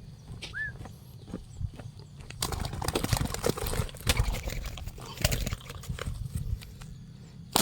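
Spotted dove cooing low, mixed with scattered knocks and clicks.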